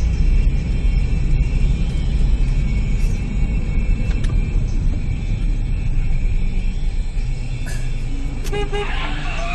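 Dashcam audio of a car driving, with a steady low rumble of engine and road noise. Near the end come a few short car-horn toots.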